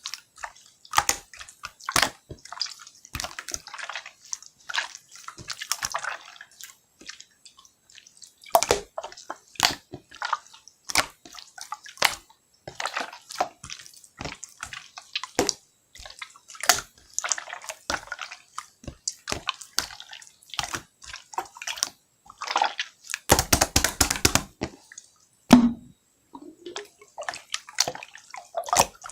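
Slime being squished and poked by hand, making irregular wet clicks and pops. A dense run of rapid pops comes about 23 seconds in.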